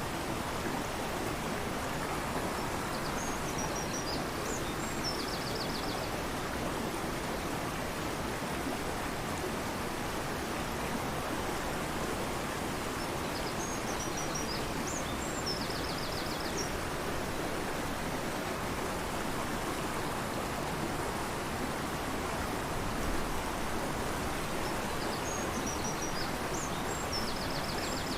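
A fast-flowing river rushing steadily. Over it, a songbird sings the same short high song three times, about ten seconds apart: a few separate notes, then a quick trill.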